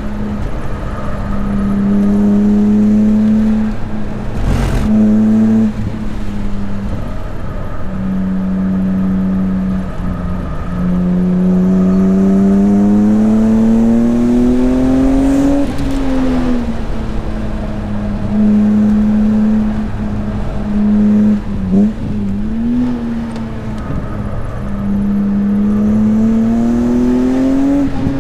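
BMW S54 3.2-litre straight-six, swapped into an E36 M3, heard on board during a track lap. It holds steady, then twice climbs in pitch as the car accelerates out of corners, dropping sharply on lifts or shifts. A single sharp knock comes early on.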